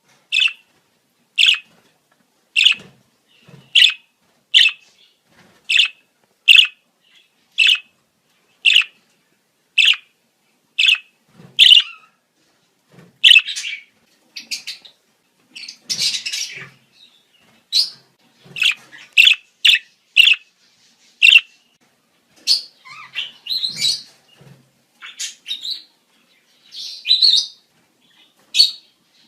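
Budgerigars' breeding-season chirping: short sharp chirps about once a second for the first dozen seconds, then a looser, busier run of chirps and warbling.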